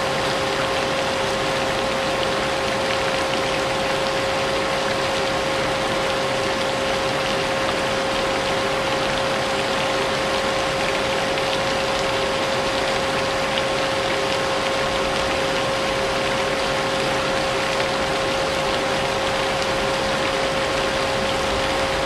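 A vacuum cleaner running steadily, its motor giving a constant whine, mixed with the even hiss of falling rain.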